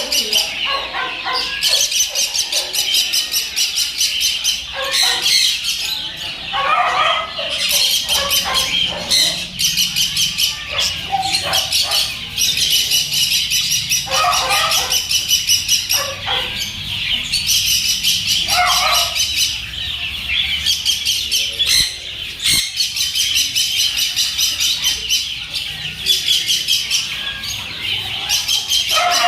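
Many small caged birds chirping and chattering together in a dense, continuous chorus, with lower, harsher calls breaking in now and then.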